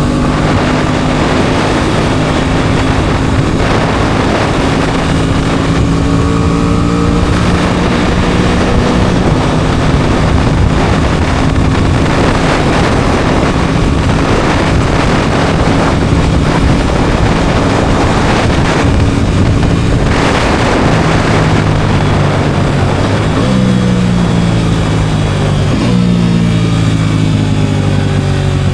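Aprilia Tuono 660's parallel-twin engine running under way at a steady pitch, with wind noise. In the last few seconds the engine note slides down in steps as it slows.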